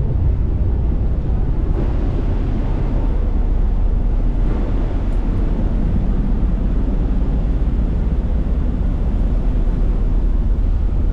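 Steady low rumble of a passenger ferry's engines under way, heard on board.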